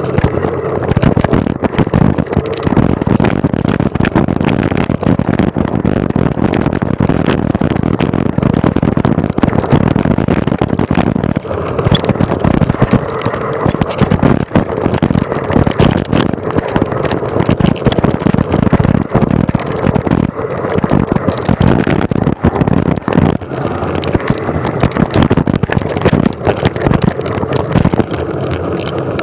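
Mountain bike ridden fast over rough ground: wind rushing over the microphone and a steady clatter of knocks and rattles from the bike and the camera mount.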